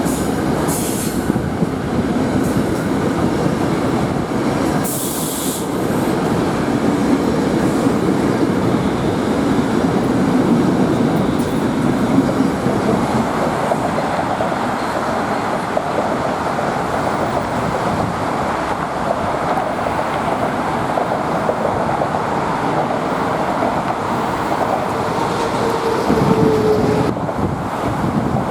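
NJ Transit commuter train rolling along the platform, a steady rumble of wheels on rail, with a short burst of hissing air about five seconds in and a thin squeal of wheels near the end.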